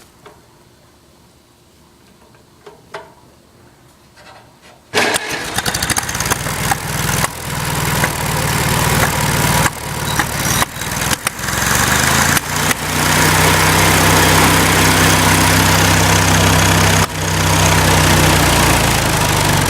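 Farmall Cub tractor's four-cylinder engine starting: a few faint clicks, then it fires suddenly about five seconds in. It runs unevenly with several brief stumbles and dips before settling into steady running for the last several seconds.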